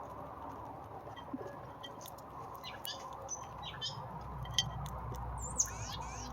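Small birds chirping in short, scattered high calls, with one louder call sweeping downward about five and a half seconds in, over a steady background hum.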